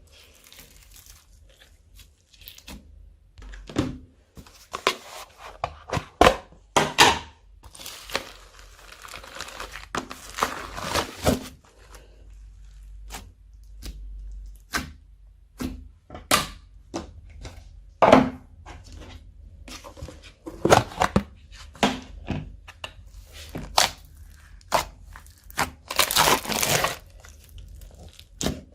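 Slime being mixed and squished by hand, close up: an irregular run of sticky pops, clicks and crackles, with a few louder squelches near the end.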